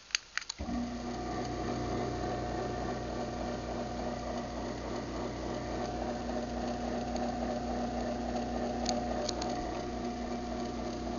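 Craftsman 1/2 hp garage door opener triggered by remote: a couple of clicks, then about half a second in the motor starts and runs with a steady hum, stopping near the end.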